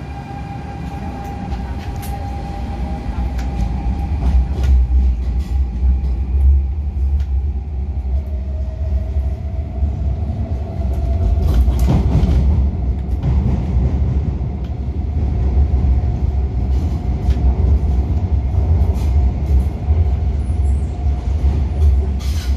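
MTR Tung Chung Line A-Train heard from inside the car as it gets under way: the traction motors' whine changes pitch and then climbs slowly as the train gathers speed, over a deep rumble of wheels on track that grows louder over the first few seconds. There is a brief louder clatter about halfway through.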